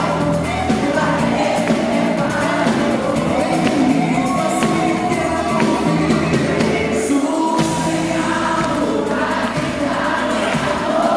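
A live pop song played by a band, with singing throughout. The melody glides and holds over steady bass and drums.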